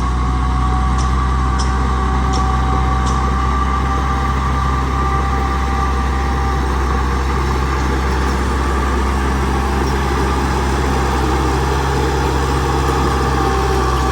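Heavy diesel engine of earth-moving machinery running steadily, with a steady high whine over the low engine hum.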